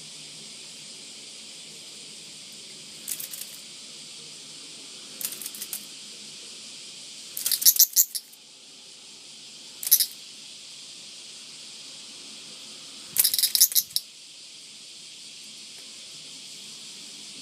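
A cicada giving short rattling buzzes: five separate bursts of under a second each, over a steady high hiss.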